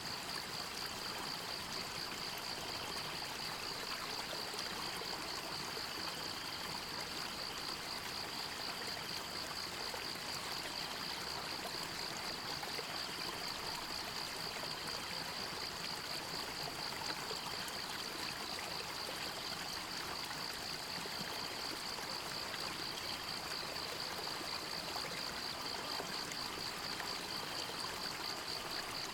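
A forest stream running steadily over rocks, with a continuous high-pitched, rapidly pulsing trill from calling animals over it.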